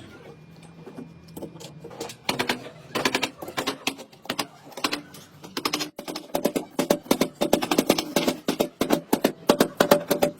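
A rapid, irregular series of clicks and taps, growing busier after about two seconds, with a faint steady hum beneath.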